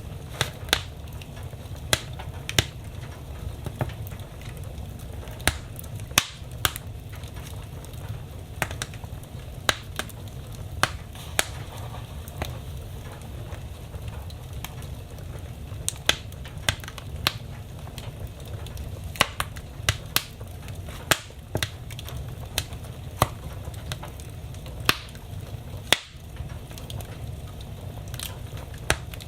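Wood fire burning in a fireplace, crackling with sharp irregular pops every second or so over a low steady rumble of the flames.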